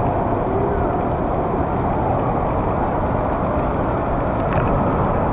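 Steady, loud rushing water noise in an indoor waterpark, with no break or change.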